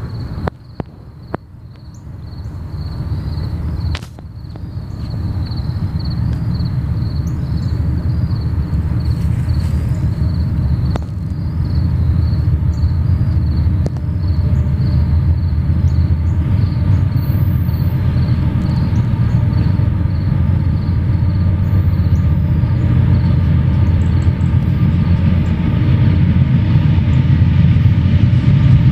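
Train approaching and running close by: a low rumble that builds over the first few seconds and then holds loud and steady, with a faint high tone pulsing about twice a second above it.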